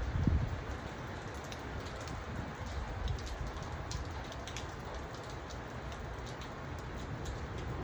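Steady rain falling, with many individual drops ticking sharply over the even hiss, and a brief low rumble just after the start.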